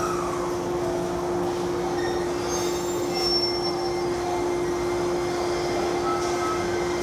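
Steady electric hum and rumble of an electric train standing at a station platform. A falling whine fades out in the first half-second, and faint high squeals come about three seconds in.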